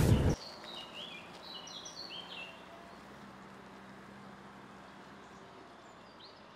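Birds chirping in quiet woodland: a quick run of short, falling high notes over the first couple of seconds, with a few more near the end, and a faint steady low hum in the middle. A split second of louder sound cuts off abruptly right at the start.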